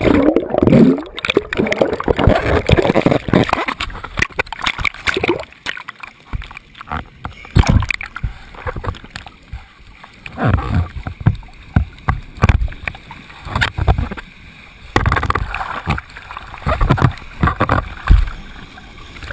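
Water splashing and gurgling in irregular loud bursts, with a voice briefly at the start.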